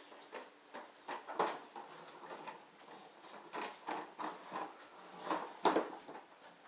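Irregular knocks and clatter, a few short hard strikes a second apart.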